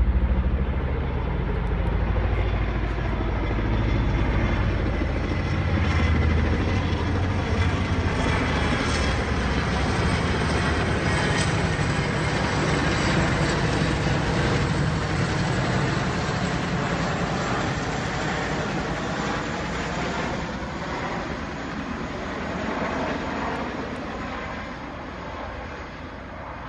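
Two helicopters flying overhead: steady rotor chop mixed with engine noise, slowly growing fainter over the second half as they move away.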